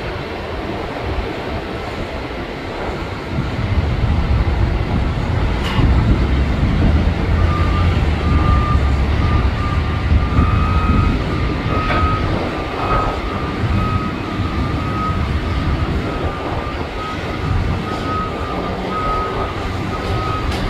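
Airport ramp noise: a low engine rumble that swells about four seconds in, with a vehicle's reversing beeper starting to beep repeatedly a few seconds later.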